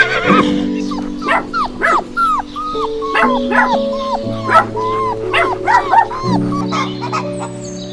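Dog barking repeatedly, about two to three short barks a second, starting about a second in. Background music with long held notes plays underneath.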